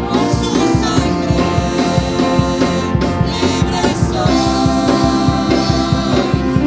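Church worship band playing a gospel-style worship song with a steady beat, between sung lines.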